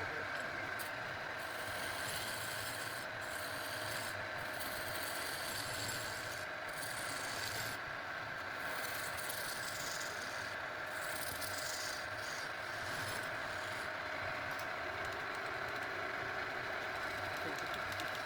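Wood being worked by a power tool: a steady motor tone under continuous abrasive rubbing against wood.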